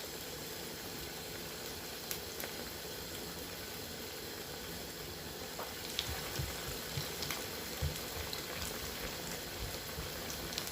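Batter-coated mutton chops frying in hot oil: a steady sizzle with scattered pops and spits, more of them from about six seconds in.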